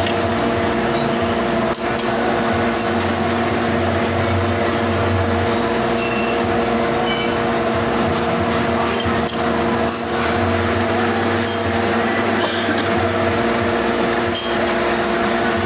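Manual metal lathe running steadily, its motor and gearing giving a constant hum made of several tones, with a few light clicks.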